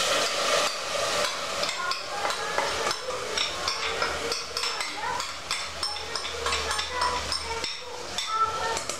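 Kitchen utensils clinking, knocking and scraping against pots and bowls, in a rapid, irregular run of short clinks, some of them ringing briefly.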